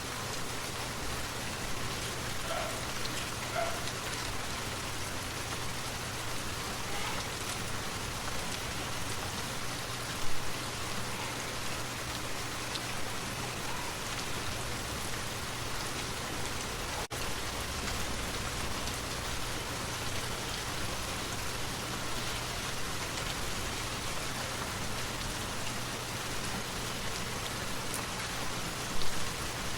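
Steady rain falling, an even dense hiss, with two brief louder thumps, one about ten seconds in and one near the end.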